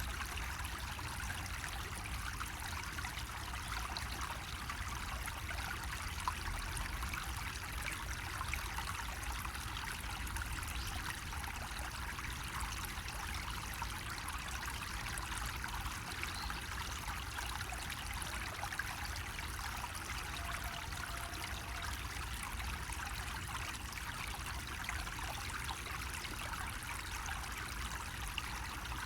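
Water trickling and splashing steadily from a bamboo water spout.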